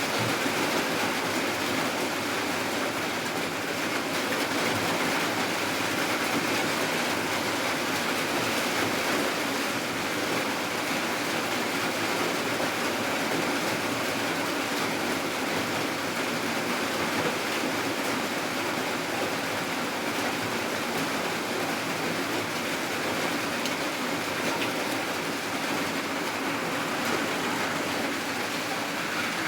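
Steady heavy rainfall, an even wash of noise without breaks.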